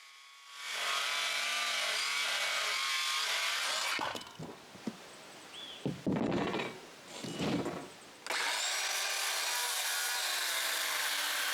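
Electric power saw cutting 2x4 lumber: one steady cut lasting about three seconds, a pause with a few knocks, then a second cut that starts abruptly about eight seconds in.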